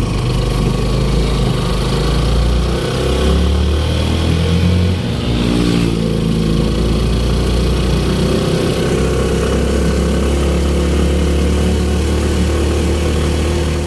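A vehicle's engine running steadily, its pitch shifting up and down a few times as it speeds up and eases off, over a constant rushing noise.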